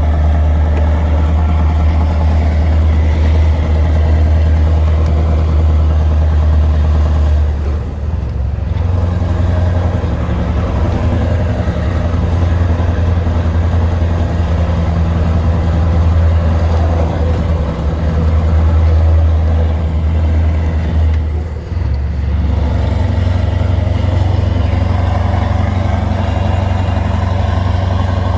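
Scania R560 V8 diesel truck engine, remapped to 690 hp, pulling hard under load on a steep climb with a steady deep drone. Twice, about 8 and 22 seconds in, the note dips briefly and then comes back at a slightly different pitch.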